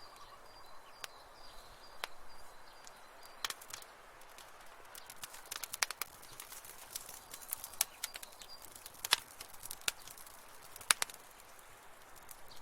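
Wood fire crackling in a fireplace: irregular sharp pops and snaps over a soft hiss, coming thicker after the first few seconds, with the loudest pops about 9 and 11 seconds in.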